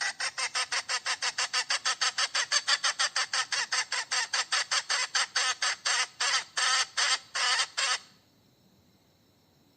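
Hen cackling: a fast, even run of sharp notes, about six a second at first, slowing and stopping about eight seconds in.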